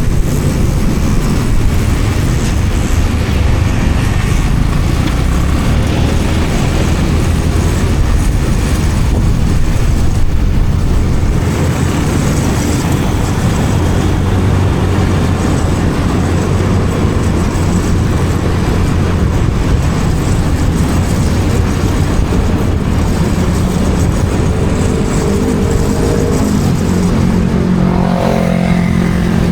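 Motorcycle on the move, its engine and road noise mixed with a steady rush of wind on the camera microphone. Near the end a clearer engine note comes through, shifting in pitch.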